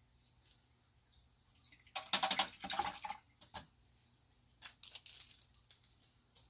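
Two short bursts of crinkling, rattling handling noise, the first about two seconds in and lasting over a second, the second shorter, a little before five seconds.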